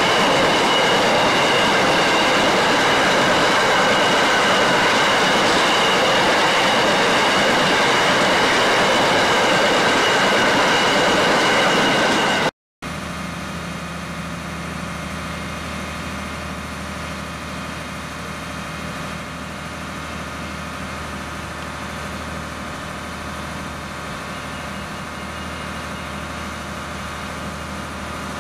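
A long train of loaded hopper wagons rolling past on the rails: a steady rumble and rattle of wheels with a high, steady wheel squeal. About twelve seconds in the sound cuts off abruptly and is replaced by a quieter steady low hum, like a diesel railcar idling at a station platform.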